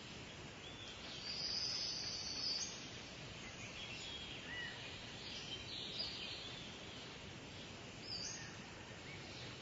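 Small birds chirping and twittering in high, short calls over a steady background hiss, with a louder high-pitched stretch of song from about one to two and a half seconds in.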